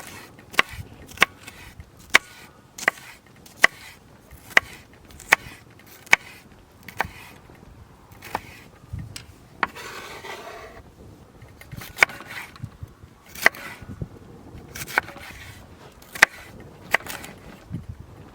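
Knife chopping food on a wooden cutting board, in steady strokes about every three-quarters of a second. About ten seconds in there is a brief scraping sound.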